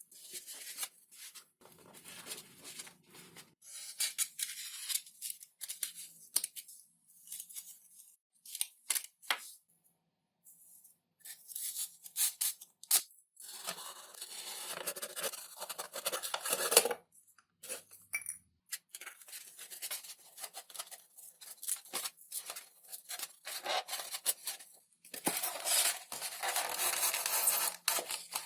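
Hand work on thin XPS foam sheet (Depron): irregular cutting, scraping and rubbing in short bursts with brief pauses.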